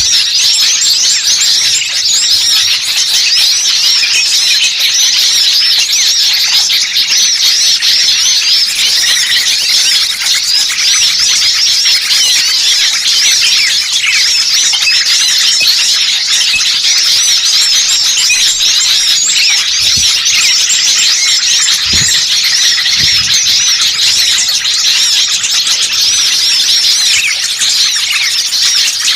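A dense chorus of many small songbirds chirping and trilling at once, high-pitched and unbroken: a bird-lure recording of agitated small birds.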